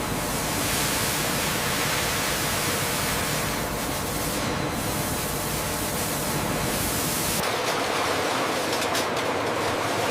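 Steady rushing noise with no distinct events; its tone changes about seven and a half seconds in.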